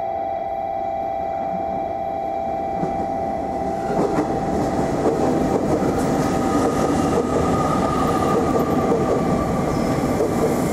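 JR Kyushu 885 series electric limited express train running past close by, its wheels and running gear making a steady rush of rail noise that gets louder about four seconds in.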